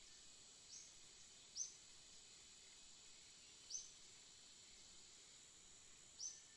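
A small songbird giving four short, high, down-slurred chirps a second or two apart, over a faint steady high hiss.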